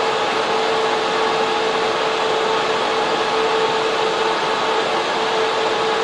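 Data center server room: server cooling fans and air cooling units running as a steady, loud rushing noise with a constant mid-pitched tone through it.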